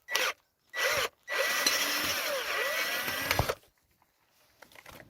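Power drill-driver undoing the bolt that fixes a greenhouse side-vent winder handle: two short bursts, then a longer run of about two seconds with a steady high whine.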